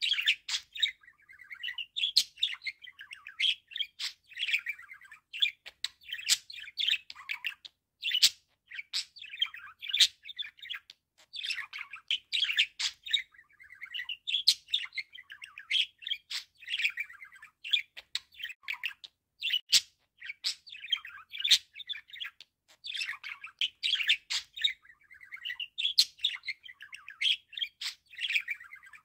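Budgerigar warbling and chirping: a continuous, busy stream of short chirps and chattering notes with sharp clicks mixed in.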